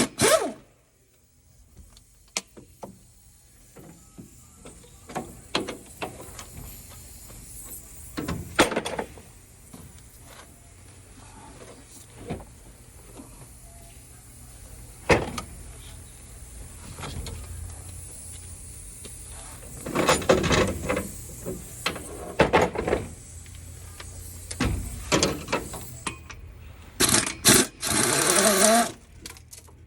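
Mechanic's hand tools working on metal: scattered sharp clicks and clanks, with busier bursts about twenty seconds in and near the end.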